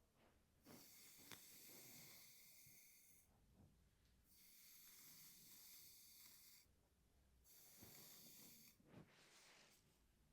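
Hairbrush drawn slowly through hair, three long soft hissing strokes, each lasting about one to three seconds with short pauses between.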